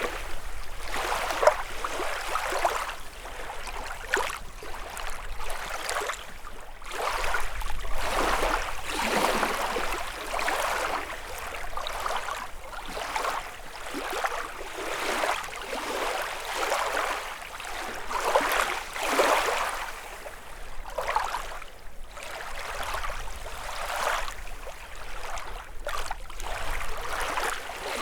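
Small lake waves lapping and splashing against the shore in an irregular series of washes, about one every second or two.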